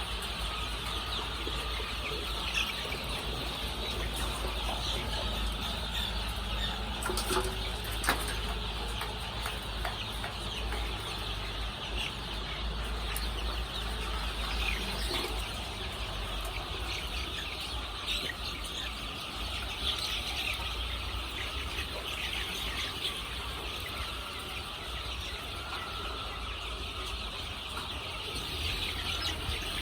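A flock of layer chickens calling all at once, many overlapping chirps and clucks in a steady din, over a steady low hum. A few sharp clicks sound about seven to eight seconds in.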